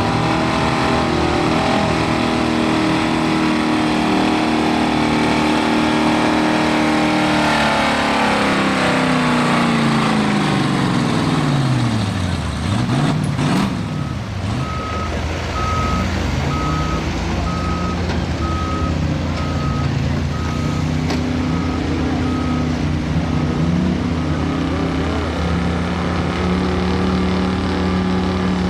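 Several demolition-derby pickup truck engines running at once, one revving and then falling steeply in pitch as it comes off the throttle. A sharp crack about halfway through, then a vehicle's backup beeper sounding at an even pace for about nine seconds over the running engines.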